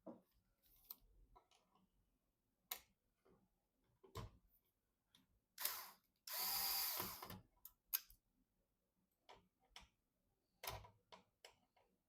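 Scattered light clicks and knocks of computer parts and screws being handled, with a short whir of a small electric screwdriver a little over a second long about six seconds in.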